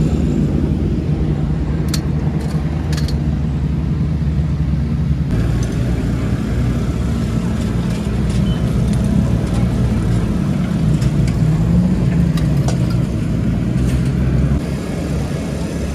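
A motor vehicle's engine running steadily with a low, even rumble. The sound changes abruptly about five seconds in and again near the end.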